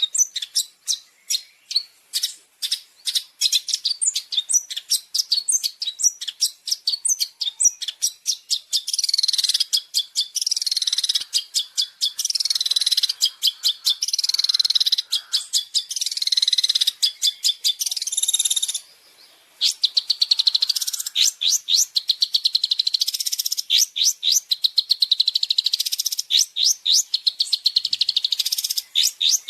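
Long-tailed shrike (cendet) singing a fast, continuous chattering song of rapid high notes and trills, with one short pause a little past the middle.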